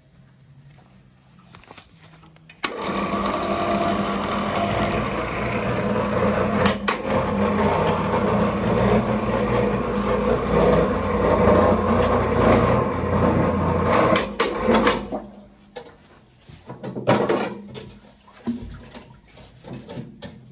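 A small motor-driven machine starts suddenly about three seconds in, runs steadily for about twelve seconds and then stops, leaving a few scattered knocks.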